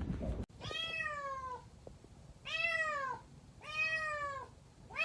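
A domestic cat meowing three times, each meow about a second long, rising slightly and then falling in pitch.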